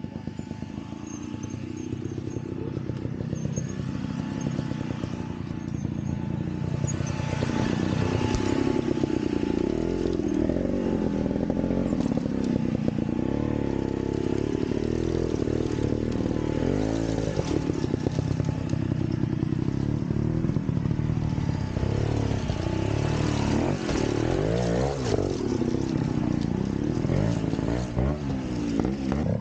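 Vintage trials motorcycle engine working through a section, its revs rising and falling again and again with throttle blips, growing louder over the first eight seconds or so.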